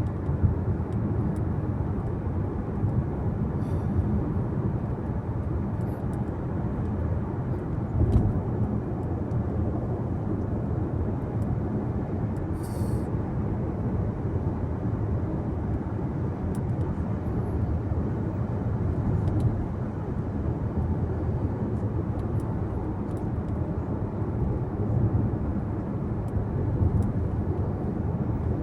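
Steady low rumble of road and engine noise inside a moving car's cabin. There is a soft thump about eight seconds in and a brief high hiss about thirteen seconds in.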